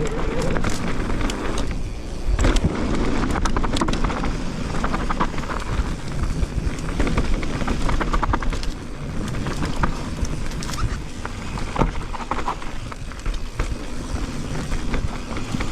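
Electric mountain bike descending a rocky trail: knobby tyres rumbling over stones, with constant clattering and rattling from the bike and many sharp knocks as it hits rocks, and wind on the microphone.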